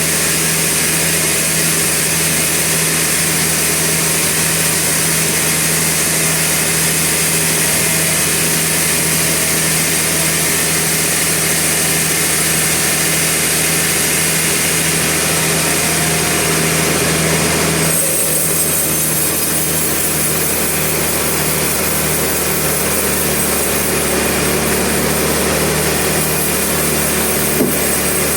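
Sawmill machinery running steadily with a high hiss. About two-thirds of the way through, the hiss drops away and the running sound changes, and a single click follows near the end.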